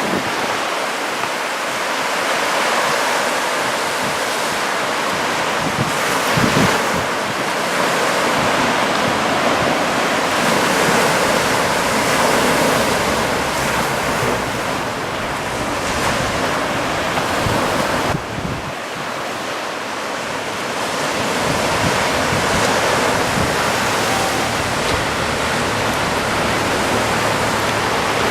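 Small surf from a near-flat sea washing onto the shore, a steady wash that swells and eases gently, with some wind on the microphone.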